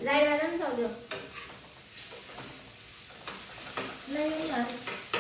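Fiddlehead ferns sizzling as they fry in a pan, with a spatula stirring them and clicking against the pan.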